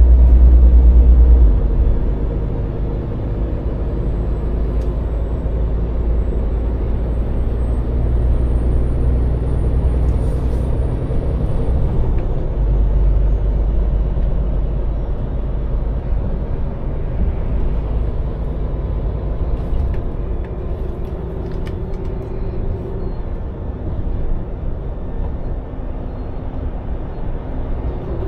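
Scania lorry's diesel engine running with a deep rumble, loudest for the first second and a half, then settling to a steadier, quieter drone.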